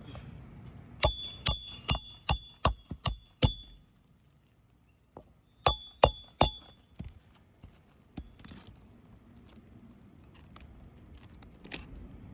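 Roofing hammer striking a roof snake to drive a nail under an asphalt shingle: a run of seven quick metallic, ringing blows, a pause of about two seconds, then three more.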